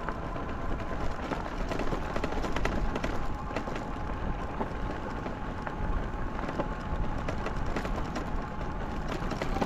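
Riding an e-bike along a trail: steady rumble of wind on the microphone and tyre noise, with a faint steady whine and scattered small clicks and rattles.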